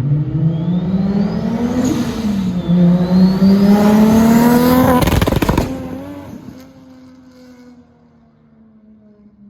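Modified MK4 Toyota Supra accelerating hard, its engine pitch rising, with a brief dip about two seconds in as it shifts, then a short burst of loud exhaust bangs as the throttle comes off about five seconds in. The engine sound then fades away into the distance.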